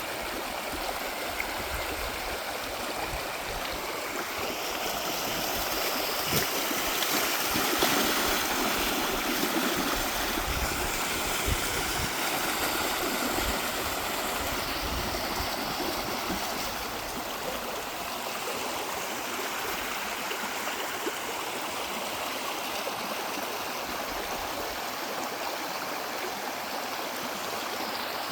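River running high and fast after a typhoon: a steady rushing of flowing water, a little louder for a few seconds near the middle.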